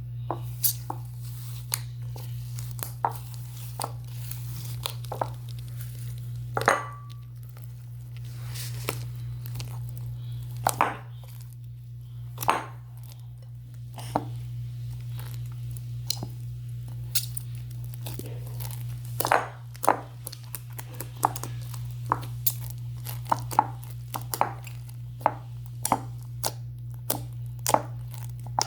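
Slime mixed with foam beads being squeezed and pressed, giving irregular crackling clicks and pops, over a steady low electrical hum.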